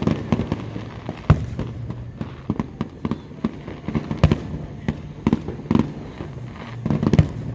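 Fireworks going off in quick, irregular succession: many bangs and crackling pops, the sharpest about a second in, over a steady low hum.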